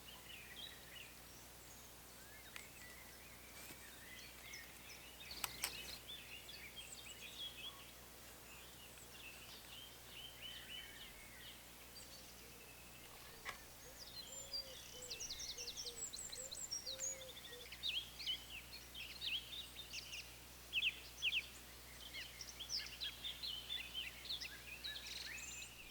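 Several woodland birds singing and calling at once, with overlapping chirps and quick high trills that grow busier in the second half. Two sharp clicks stand out, about five seconds in and again near the middle.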